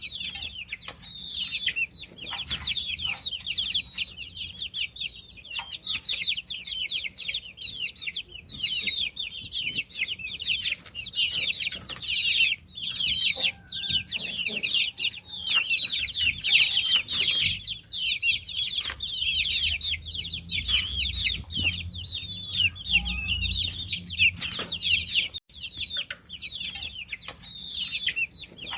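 A group of baby chicks peeping nonstop, many short high calls overlapping, most sliding down in pitch.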